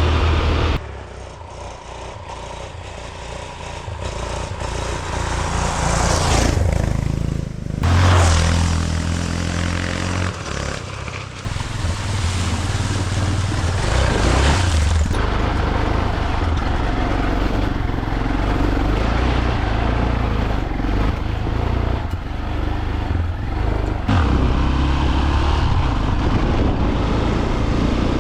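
Dirt bike engine running under way, its revs rising and falling as it is ridden, quieter for a few seconds about a second in, with brief rushes of noise over it.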